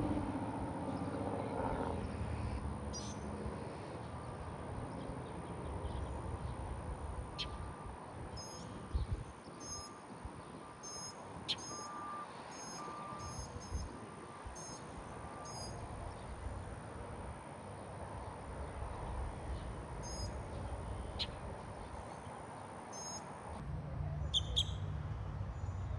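Wild birds calling in a morning chorus: short high chirps scattered throughout, and a run of short, evenly spaced notes in the middle. Beneath them are a steady low rumble and a thin constant high tone that stops near the end.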